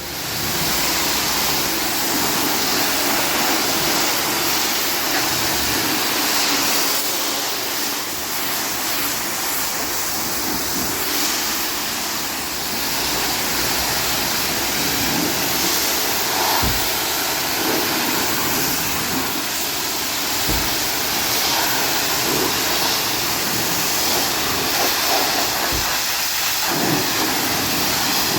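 High-pressure washer spraying water onto a car body: a steady loud hiss of spray, with a few brief low thumps.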